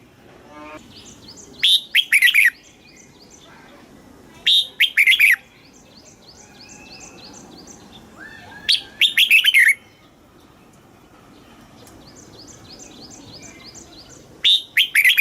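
Red-whiskered bulbul singing short, loud phrases of quick whistled notes, four of them a few seconds apart. Fainter, rapid bird chirps go on between the phrases.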